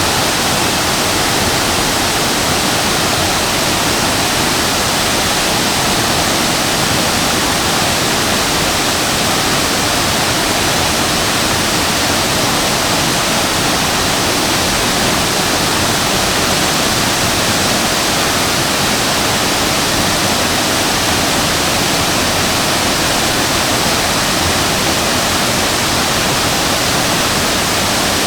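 Waterfall, the Shasui Falls, pouring and splashing: a loud, steady rush of falling water with no breaks.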